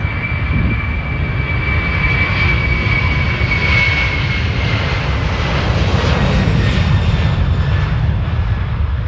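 Jet airliner engines running loud, a high whine that fades about four seconds in over a steady rumble.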